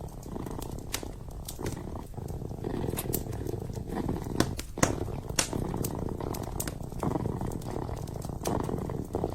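Kitten purring close up, a low rumble swelling and easing with each breath, over a wood fire crackling with frequent sharp pops.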